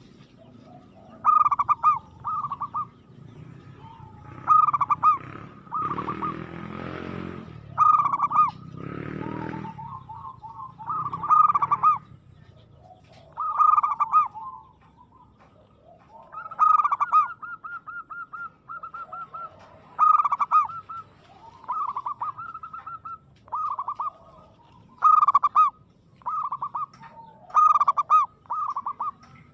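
Zebra dove song: short bursts of rapid, quavering coos repeated every two to three seconds. A broader rushing noise runs underneath about six to nine seconds in.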